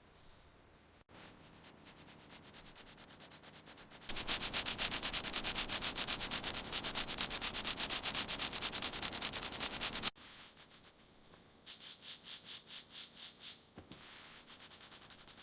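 Hand block sanding of body filler on a car body panel: quick, even back-and-forth rasping strokes. They are faint at first, then loud for about six seconds, then break off and resume more softly in a shorter run.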